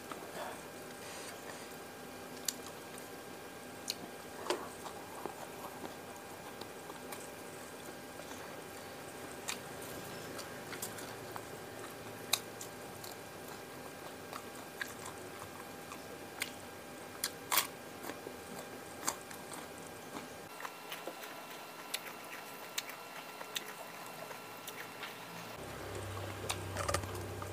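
Close-miked eating of fried mujair (tilapia) with raw sambal matah: chewing and biting, with scattered sharp clicks and small crunches throughout.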